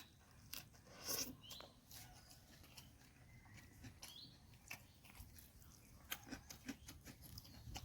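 Faint chewing and mouth clicks of a person eating, with scattered short ticks and a slightly louder patch about a second in.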